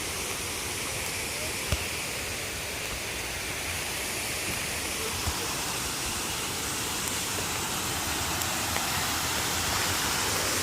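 Waterfall rushing steadily, growing a little louder toward the end, with two brief knocks.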